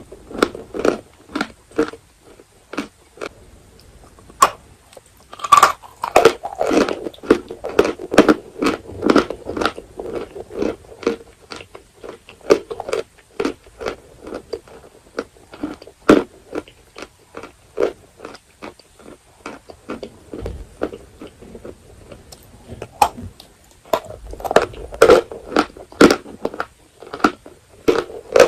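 Dry edible chalk being bitten and chewed: a steady run of sharp crunches, with denser flurries of crunching about six seconds in and again near the end.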